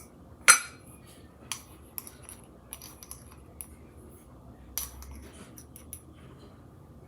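Measuring spoon clicking and tapping against mixing bowls and ingredient containers while salt is measured out. There is one sharp click about half a second in, then scattered lighter taps.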